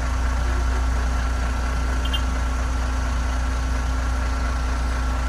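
Heavy truck diesel engine running steadily at low revs, a constant low rumble whose pitch does not change.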